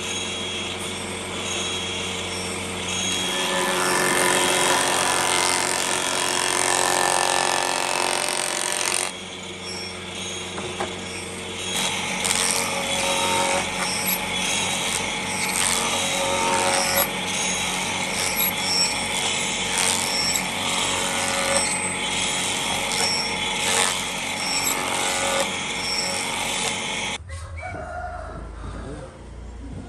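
Power tools working wood, with a steady motor tone under dense cutting noise and clicks. The sound changes abruptly about nine seconds in and again near the end, and from about twelve seconds in there is a regular low pulse of about two beats a second.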